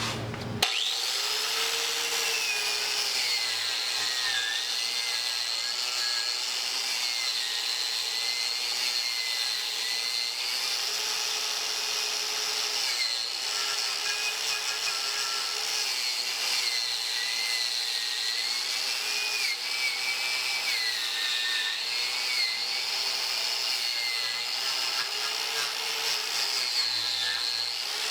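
Power tool spinning a steel wire brush against a railroad spike to clean it, with a scratchy hiss; the motor's whine dips in pitch and recovers, again and again, as the brush is pressed into the steel and eased off.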